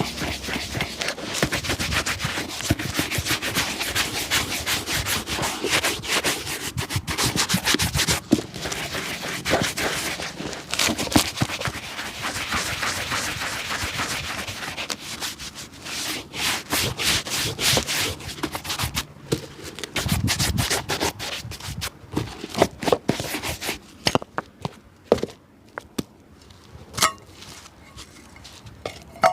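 Rapid, continuous rubbing strokes on a shoe by a cobbler working it by hand. They thin out to separate strokes and light taps in the last third.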